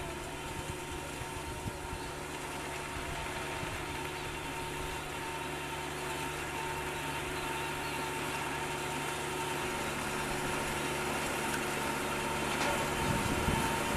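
Combine harvester's diesel engine running steadily at a constant speed, its level slowly rising.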